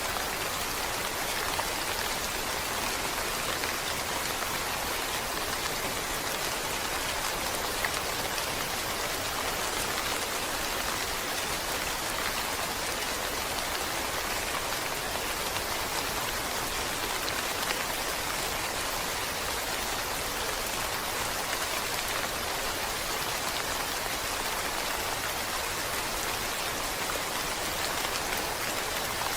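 Steady rain falling, a dense even hiss with many small drop ticks, unchanging in level.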